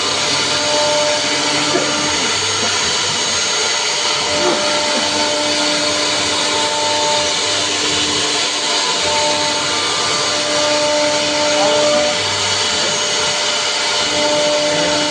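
CNC router machining a wooden door panel: a steady rush of spindle and dust extraction, with a whining tone that starts and stops every second or two as the machine moves.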